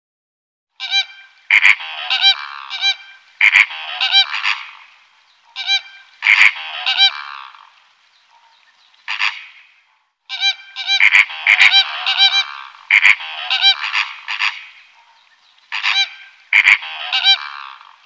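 Harsh, loud bird calls repeated in bouts of several calls at a time, with short pauses between bouts.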